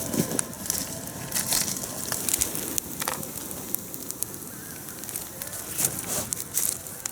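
Wood fire crackling with irregular sharp pops: a Finnish candle fire of upright split logs catching and beginning to burn.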